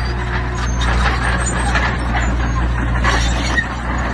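A heavy construction machine's diesel engine runs steadily under a scatter of clattering and rattling, typical of stone being pushed or loaded.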